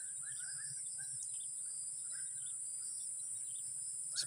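Outdoor insect chorus: a steady, high-pitched drone of crickets or cicadas. Over it comes a quick run of short chirping calls in the first second or so, then a few scattered ones.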